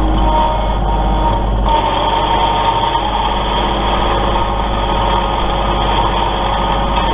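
Kubota L3901 compact tractor's three-cylinder diesel engine running steadily, with a constant high whine over the engine sound.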